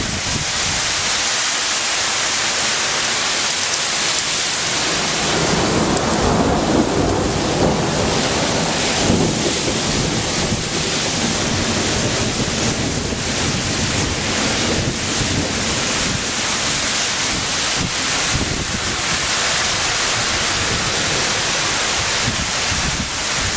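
Heavy hail pelting down in a dense, steady hiss of impacts. A low thunder rumble swells under it about a quarter of the way in and fades after a few seconds.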